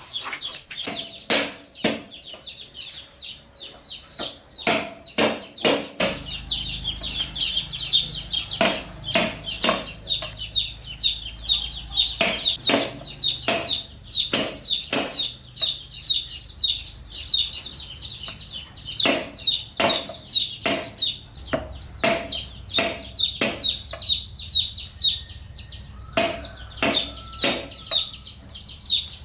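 Chickens clucking, with chicks peeping in a dense high chatter throughout. Sharp knocks are heard about one or two a second.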